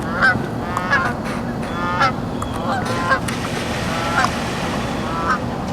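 Geese honking: about seven short calls, irregularly spaced, over a steady background rush.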